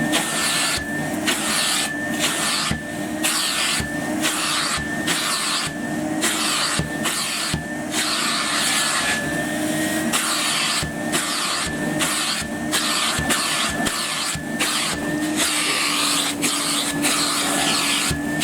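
Henry (Numatic) vacuum cleaner running steadily, a motor hum and high whine under a rushing suction hiss. The hiss breaks off and comes back many times, about every half second, as the vacuum is used to clean a filter.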